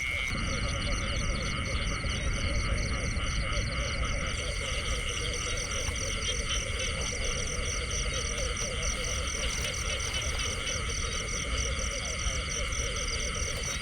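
Chorus of frogs calling: many overlapping, rapidly pulsed calls going on steadily, over a steady low background noise.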